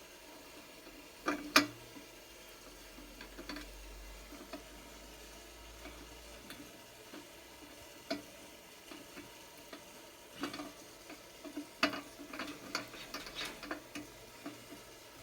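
Scattered light clicks and knocks from handling the brake-drum forge's ash-dump door and metal fittings, with one sharper knock about a second and a half in and a run of them near the end.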